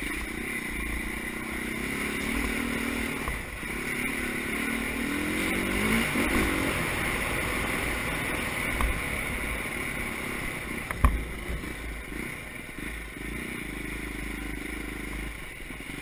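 Motocross dirt bike engines revving up and down as the bikes ride, the pitch rising several times before easing off, with a lull in the middle. One sharp knock about eleven seconds in.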